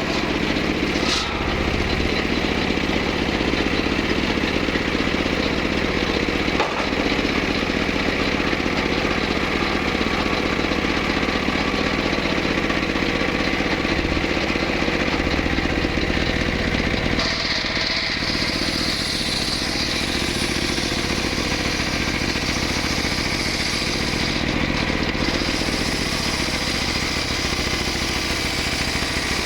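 Stihl MS381 two-stroke chainsaw running steadily under power. Its tone changes about 17 seconds in.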